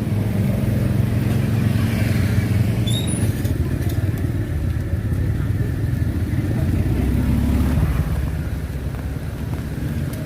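An engine running steadily, a loud low drone that shifts slightly in pitch a couple of times.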